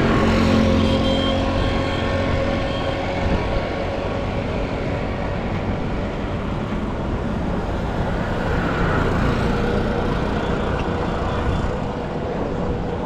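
City street traffic: a motor vehicle's engine is loudest close by for the first couple of seconds, then settles into steady road noise from passing cars.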